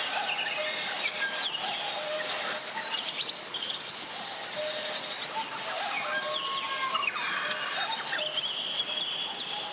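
Steady rush of a mountain stream, with birds singing many short whistled notes and chirps over it.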